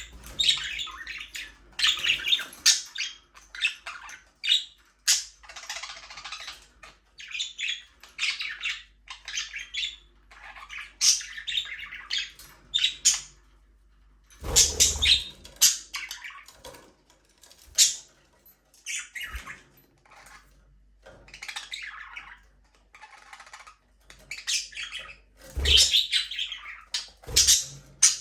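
Budgerigars chattering, with rapid chirps, warbles and squawks overlapping throughout, and a few louder bumps or wing flutters in between.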